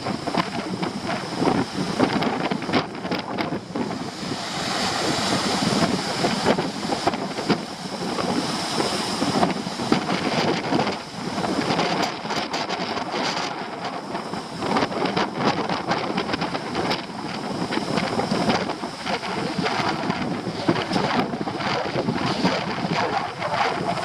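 Storm surf on a rocky shore under very strong wind, the wind buffeting the microphone in rough, crackling gusts. A louder hiss of surf swells up around five seconds in and eases off a few seconds later.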